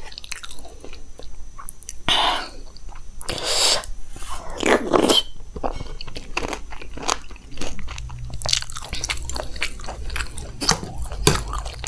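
Close-miked chewing and crunching of dahi bhalla topped with crunchy cornflake sev, in irregular bites and chews.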